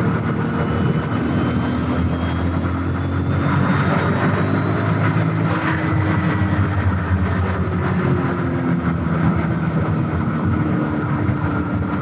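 Turbocharged VR6 engine in a Mk3 VW Golf, heard from inside the cabin, pulling hard in one gear. The engine note and a high turbo whine climb together for about six seconds, then break off with a short burst of noise as the throttle closes. After that the engine note falls slowly.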